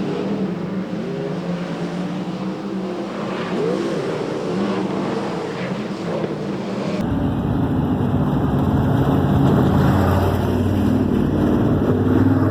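Dirt track race car engines running, several engine notes shifting up and down as the cars lap. About seven seconds in, the sound changes abruptly to a louder, deeper engine rumble.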